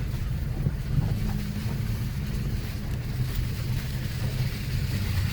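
Toyota Tacoma pickup's engine and drivetrain heard from inside the cab as it crawls slowly along a dirt trail: a steady low drone with a few faint knocks.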